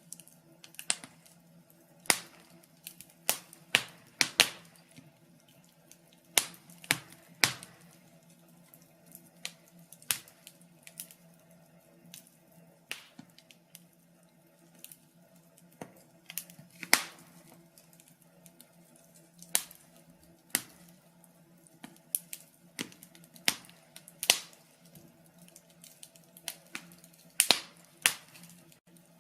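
Wood fire crackling in a fireplace: irregular sharp pops and snaps, some loud and many small, over a faint steady low hum.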